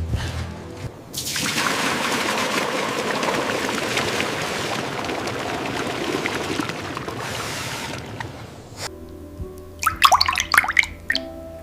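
Water pouring or running in a steady stream, starting about a second in and stopping about nine seconds in. It is followed by a few short, sharp, high sounds that slide in pitch.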